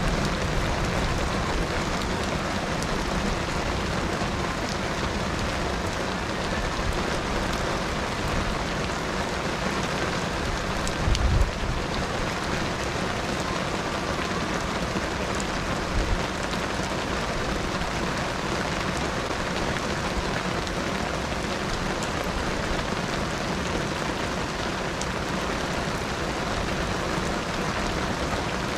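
Steady rainfall, an even hiss, with two brief low thumps about eleven and sixteen seconds in.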